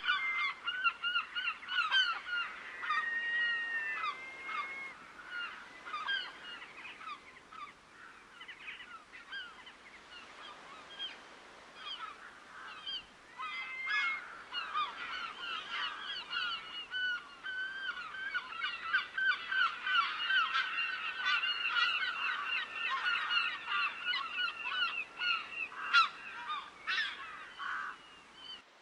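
A flock of waterbirds calling: many short, overlapping calls, thinning out around the middle, building again and then stopping abruptly near the end.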